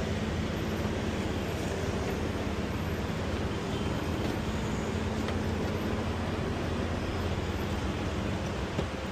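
Steady low rumble of a moving vehicle, with a faint constant hum and a small knock near the end.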